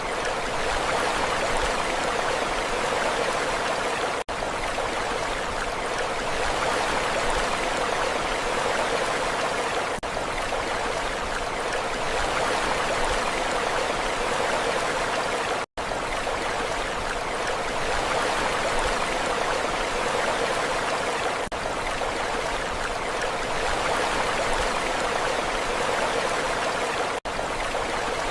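Steady rushing water, an even hiss with no clear wave surges, broken by three very short dropouts about 4, 16 and 27 seconds in, the middle one the deepest.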